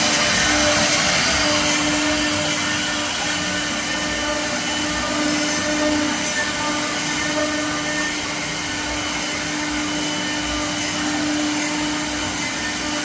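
Wood CNC router running and cutting, a steady motor whine over a hiss, with a hum that swells and fades as it works.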